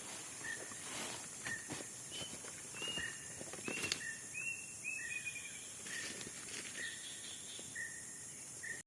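Tropical forest ambience: a short animal call repeats about twice a second, with a few higher calls and a falling trill in the middle, over a steady high insect hiss. The sound cuts out abruptly at the end.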